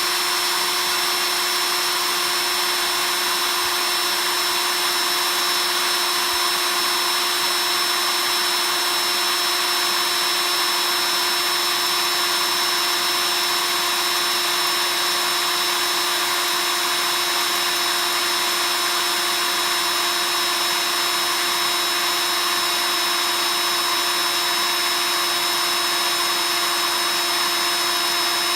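Electric drill running steadily at one constant speed, a whine that holds the same pitch throughout with no change in load.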